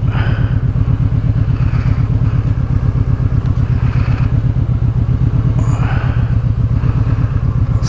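Kawasaki Vulcan Vaquero's V-twin running steadily through an exhaust with its baffles taken out, a deep, evenly pulsing beat.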